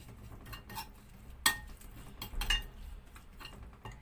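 Kitchen utensils clinking against a dish: a few scattered sharp clinks with a short ring, the loudest about one and a half seconds in and a small cluster a second later.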